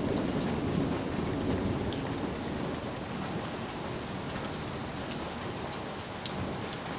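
Rain falling steadily, with scattered sharp drops ticking close by.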